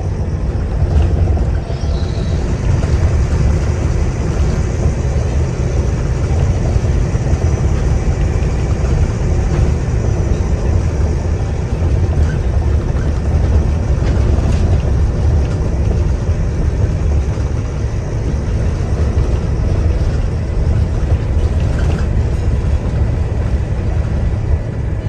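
Inside a Wright Gemini 2 double-decker bus (Volvo B9TL): diesel engine and road noise, a steady loud low rumble, with a faint high whine for the first several seconds.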